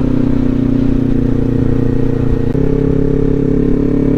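Kawasaki Ninja 400's parallel-twin engine running steadily on the road, its note changing abruptly to a new pitch about two and a half seconds in.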